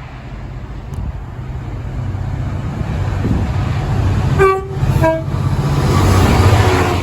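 A train's two-tone horn sounds two short notes, a higher then a lower, about four and a half and five seconds in, over a low engine rumble that grows louder as the train comes through.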